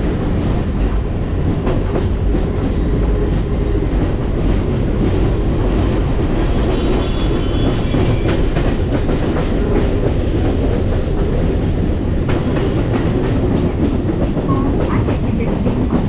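Chennai electric local train running at speed, a steady loud rumble with the clickety-clack of wheels over rail joints.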